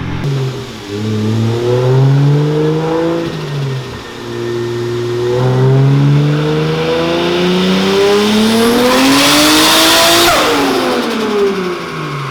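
Single-turbo Toyota Supra making a full-throttle run on a chassis dyno. The engine revs climb, drop about three and a half seconds in as it shifts, then climb again to about ten seconds in. There the throttle closes with a loud burst of rushing air and the revs fall away.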